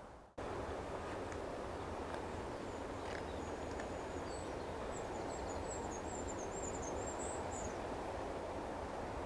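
Steady outdoor background noise, with a small bird's high, thin twittering song from about three seconds in until near the end.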